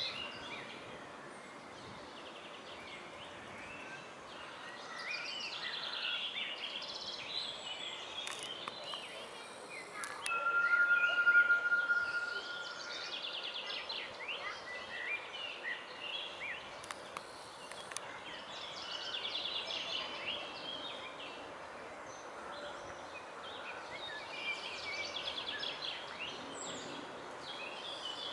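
Small birds singing in short, repeated chirping phrases over a faint outdoor background. About ten seconds in, a single steady high whistle-like tone is held for about two seconds and is the loudest sound.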